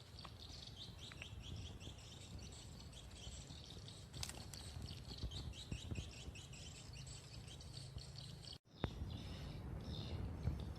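Faint chorus of small birds chirping, many short high calls repeating over a low rumble; the sound cuts out for an instant near the end.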